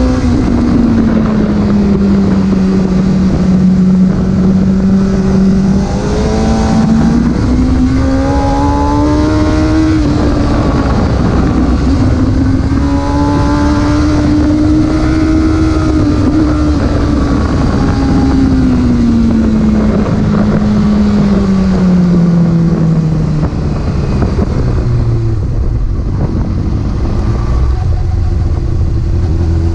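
Porsche engine running while the car is driven, with steady road noise; its pitch rises and falls slowly with the revs.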